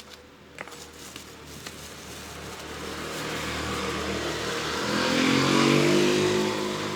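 A motor vehicle passes by: its engine grows steadily louder, is loudest about five to six seconds in, and then fades a little. A few light clicks of handling come in the first couple of seconds.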